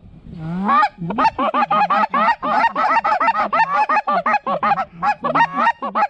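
Rapid, steady series of Canada goose honks, about five a second, each a two-part honk breaking upward in pitch.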